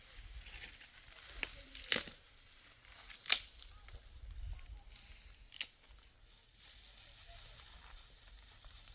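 Dry wheat stalks crackling and tearing as they are harvested by hand. A few sharp snaps stand out, loudest about three seconds in.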